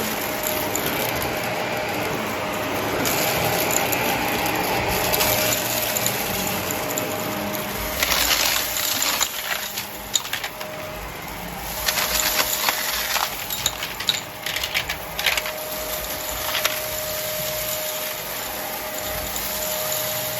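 Vacuum cleaner running steadily with its motor whine, picking up debris that crackles and rattles through it in bursts about 8 seconds in and again from about 12 to 15 seconds in.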